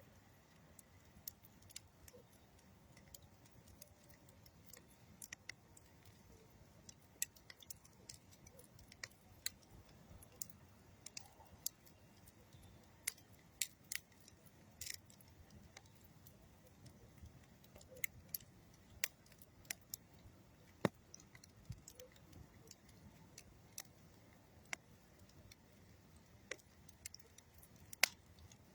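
Campfire of old railroad wood and dead tree wood crackling: sharp pops and snaps at irregular intervals, a few louder than the rest, over a faint low background.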